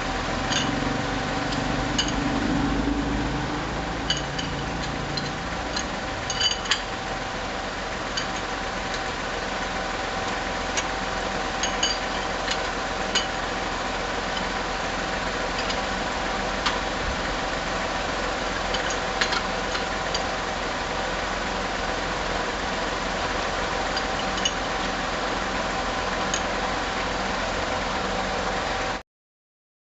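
Steady mechanical hum with a constant tone and a lower rumble in the first few seconds, over scattered light metallic clinks of tools being handled; the sound cuts off suddenly near the end.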